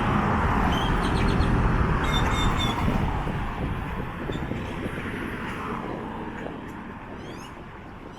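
A vehicle passing on the street, a low rumble with road noise that is loudest early and fades away through the rest. Birds chirp faintly in the trees above it.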